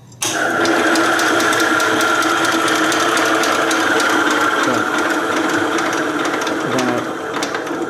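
Tractor engine being spun over on its electric starter-generator from jumper cables, a steady loud mechanical whir with rapid clicking. It starts suddenly and eases down near the end. The cranking drives the hydraulic pump to push oil out of the system, and the blown engine has what the owner guesses is a broken connecting rod.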